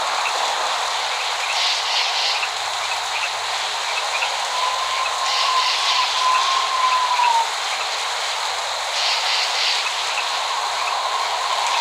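Steady rain hiss that swells several times, with no thunder rumble. A thin steady tone joins it for about three seconds from around four seconds in, and again near the end.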